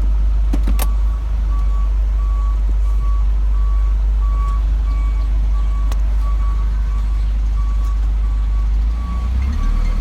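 Reversing alarm of an Isuzu box truck beeping steadily about twice a second as the truck backs up, over the engine's loud low rumble, with a couple of sharp clicks.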